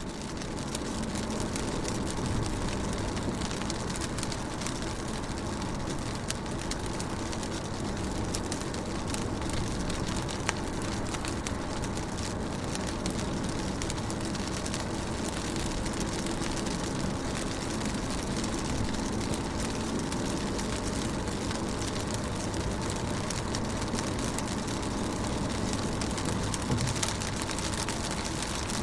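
Rain falling on a car's windows and roof, heard from inside the car: a steady dense patter of drops over a faint low hum, fading up in the first second.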